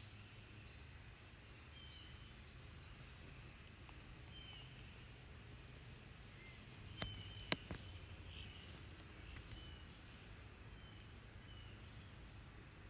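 Faint outdoor ambience with short high bird chirps repeating about once a second over a low steady hum, and two sharp clicks close together about seven seconds in.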